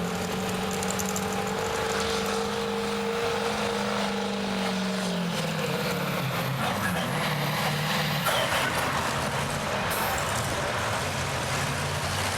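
Stock diesel pickup's engine at high revs under load, as in a sled pull, its pitch held steady and then dropping about five seconds in, running on at lower revs after that.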